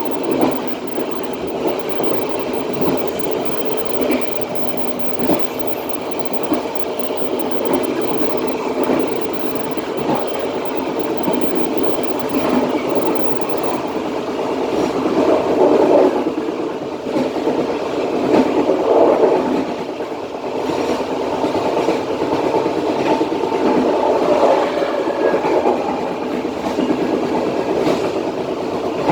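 Passenger train running along the line, heard from its rear coach: a steady rumble of wheels on rail with scattered clacks from the track.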